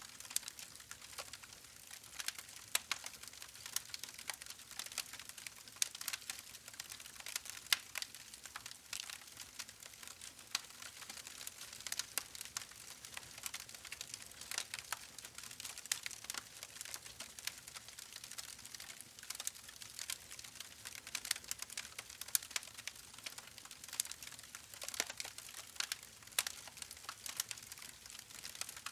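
Wood fire crackling in a fireplace: a dense run of irregular snaps and pops over a soft hiss, with a few sharper pops scattered through.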